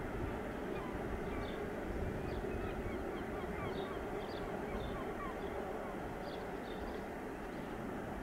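Steady rumble of a long freight train's wagons rolling past in the distance, with short bird chirps scattered over it.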